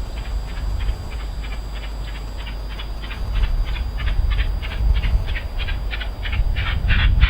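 Exhaust beats of an LMS Stanier Class 5 (Black 5) two-cylinder 4-6-0 steam locomotive running light engine, chuffing in an even rhythm of about three beats a second and growing louder near the end as it approaches, over a low rumble.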